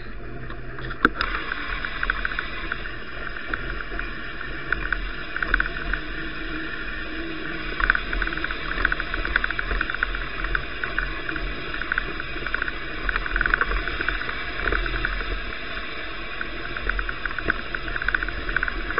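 Riding noise of a bicycle on snowy roads picked up by an action camera: a steady rush with dense crackling throughout, and a single sharp click about a second in.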